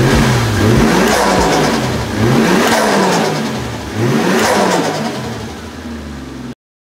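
Car engine revved repeatedly, its pitch climbing and falling back about three or four times. It cuts off abruptly near the end.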